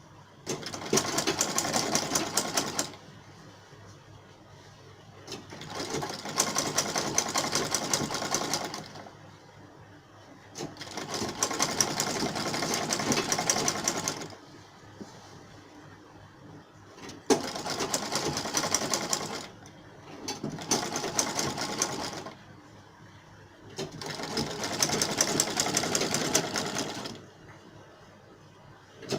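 Electric sewing machine stitching a seam in six bursts of two to four seconds, a fast, even needle clatter, stopping briefly between bursts.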